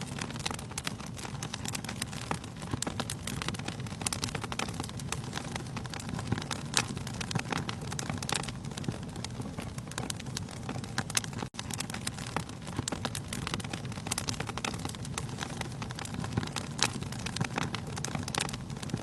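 Wood fire burning in a fireplace: a steady low rustle of flames with frequent, irregular crackles and pops of burning logs. The sound drops out for an instant a little past the middle.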